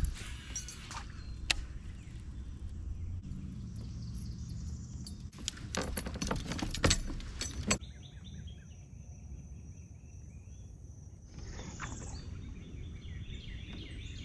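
Outdoor background noise with a few sharp clicks near the start and a cluster of clicks and knocks about six to seven seconds in, with faint bird chirps later on.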